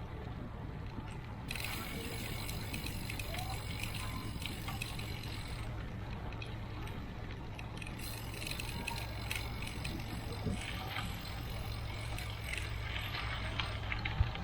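Bicycle on the move, with a steady low rumble of wind and tyres. Twice there are stretches of rapid fine ticking, typical of the rear hub's freewheel clicking while coasting, and there is one sharp click near the end.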